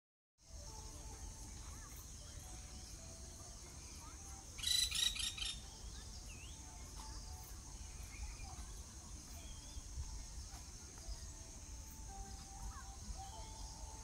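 Steady high shrilling of insects with scattered faint bird chirps, broken a little under five seconds in by a loud burst of about five rapid, harsh, high call notes from a bird, all within a second.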